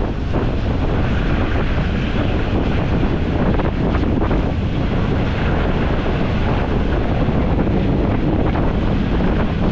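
Steady rushing wind on the microphone over the running noise of a moving passenger train, heard from an open carriage window.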